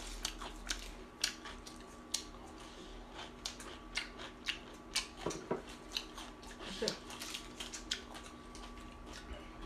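Close-up crunchy chewing of a lettuce-wrapped bite of grilled meat: irregular crisp clicks and crackles, with lettuce leaves being torn near the end. A faint steady hum runs underneath.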